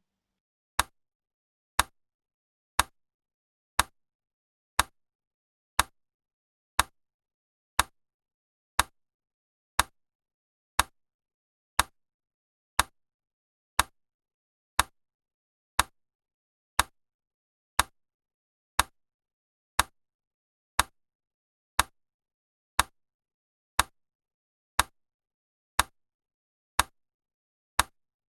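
Sharp, evenly spaced clicks, one each second, with silence between them, like a steady tick.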